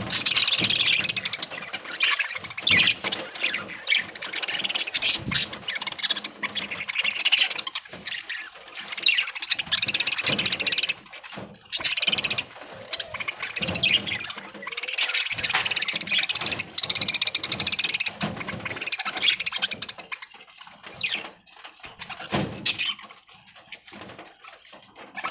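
A flock of budgerigars chattering and chirping in dense, overlapping bursts, thinning out in the last few seconds.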